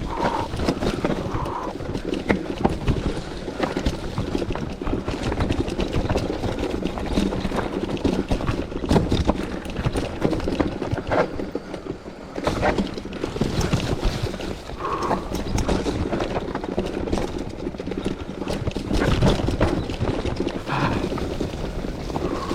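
Mountain bike riding over rough, technical dirt trail: steady tyre noise on dirt and rock, with frequent irregular clatters and knocks as the bike hits bumps.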